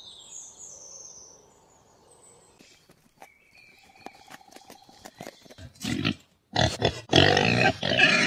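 Pigs grunting in a run of loud, rough bursts over the last couple of seconds. Fainter high chirps come first, then a few scattered clicks.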